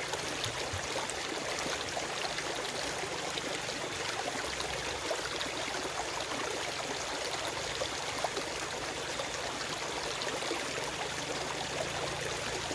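Forest stream running over stones: a steady rush of water with small splashes and trickles, no birds.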